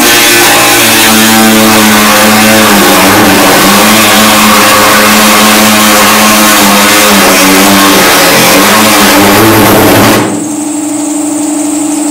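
A handheld power cut-off tool cutting through sheet-metal body panel, loud and rough with its motor pitch sagging under load. About ten seconds in it lifts off and spins freely with a steady whine.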